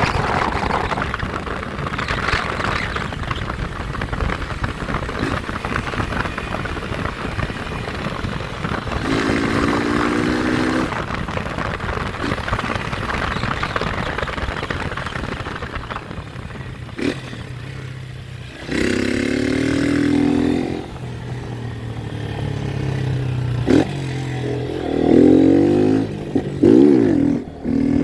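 Motorcycle engine running under a steady rush of wind and road noise, revving up and back down in several bursts, the loudest near the end.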